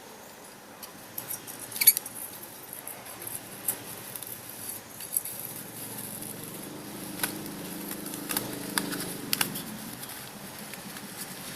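Light, irregular clicks and taps of small parts being handled while a Stirling engine piston is assembled, with a faint low hum in the middle.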